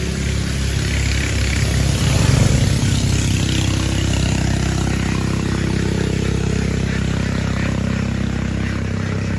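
A motor engine running, rising in pitch and loudness about two seconds in, then settling to a steady run.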